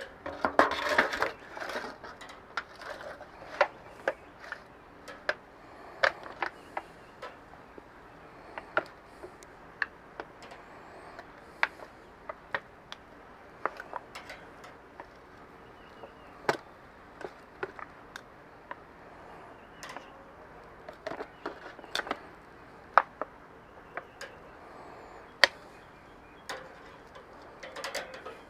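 Scattered sharp clicks and clinks, irregular and about one or two a second, as the sauced chicken legs are lifted off the grate of a Weber kettle grill.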